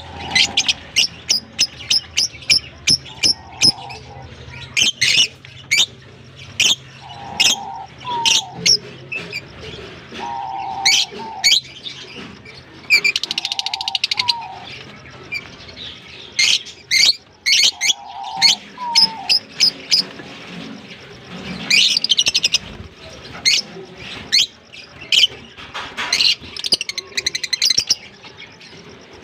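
Fischer's and blue masked lovebirds chirping: sharp, high chirps, often in quick runs. A short, lower note with a slight upward lift comes back every three to four seconds.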